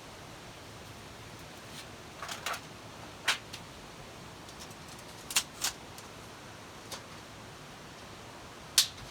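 Scattered sharp clicks and pops, about seven in all at uneven intervals, the loudest near the end, over a steady low hiss.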